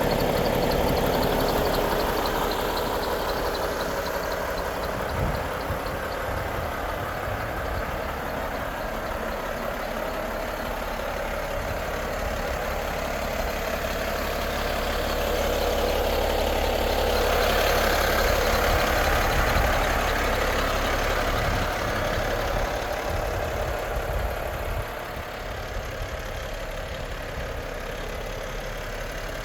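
Volvo FH 500 truck's 13-litre straight-six diesel engine idling steadily, growing louder for a few seconds about two-thirds of the way through.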